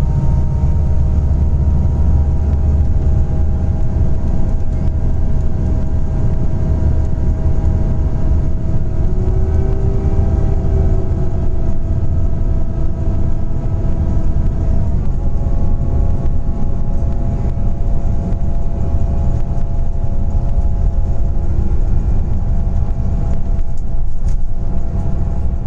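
Scania Interlink natural-gas (CNG) bus under way: a steady low engine rumble with several whining tones from the drivetrain, which step down in pitch about fifteen seconds in.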